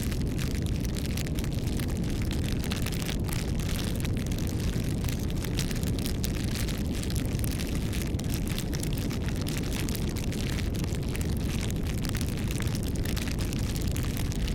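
Wood fire crackling and popping with many quick irregular snaps over a steady low rumble.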